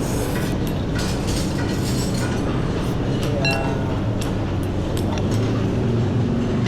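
Motorcycle engine running while riding in traffic, with road and wind noise and scattered clicks. A brief pitched beep sounds about three and a half seconds in, and the engine note rises a little near the end.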